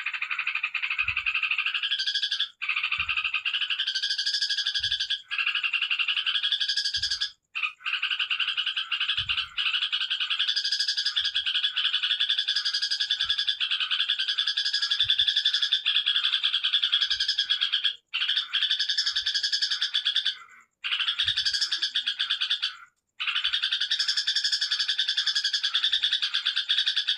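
Yellow-vented bulbul (trucukan) singing a long, rapid, unbroken chattering song, the fast 'ngekek' style, stopping only briefly now and then. Faint low thuds sound every second or two beneath it.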